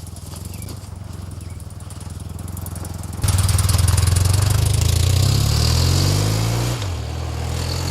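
Motorcycle engine running steadily. About three seconds in it becomes suddenly much louder, with rushing noise. The engine note then rises as the bike accelerates, drops sharply with an upshift near the end and settles to a steady run.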